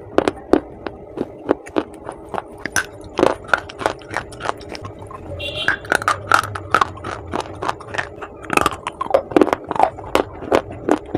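Close-up crunching of chunks of clay being bitten and chewed: sharp, irregular crackles a few times a second.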